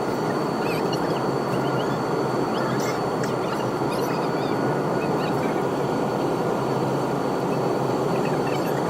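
Steady drone of a jet airliner's cabin in flight, an even rushing noise with a faint steady whine above it.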